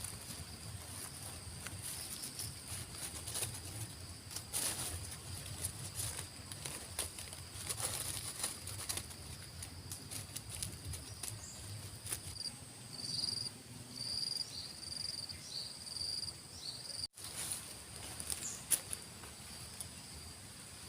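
Insects droning steadily at two high pitches, with scattered short rustles and knocks of handling throughout. A run of short high chirps comes in the middle.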